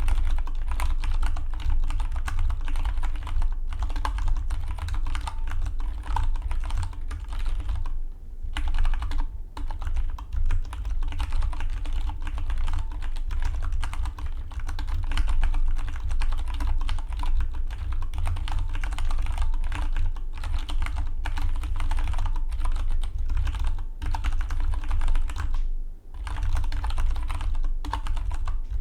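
Fast, continuous typing on a Dygma Defy split mechanical keyboard: a dense run of key clicks over a steady low rumble, with short pauses about eight, nine and twenty-six seconds in.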